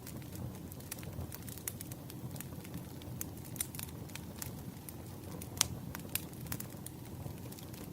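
Burning firewood crackling: irregular sharp pops and snaps over a low steady rumble of the fire, with one louder pop about five and a half seconds in.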